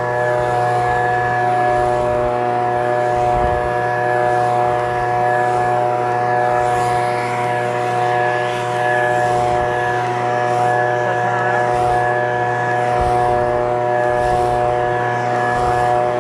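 Echo PB-2620 two-stroke handheld leaf blower running steadily at a constant engine speed.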